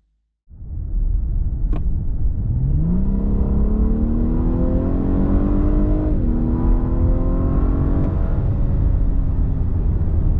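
Lexus LS 500's 3.5-litre twin-turbo V6 accelerating hard over a steady rush of road and wind noise. The engine note climbs from about two and a half seconds in, drops at a gear change of the automatic about six seconds in, and climbs again before sinking under the road noise about eight seconds in.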